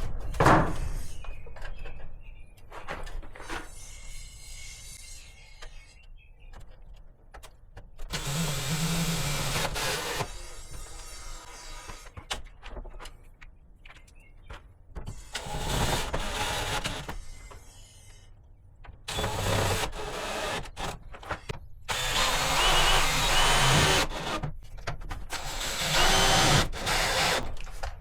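Power drill run in about five short bursts of one to two seconds, with quieter handling and knocks between them, as work goes on mounting and wiring a breaker panel.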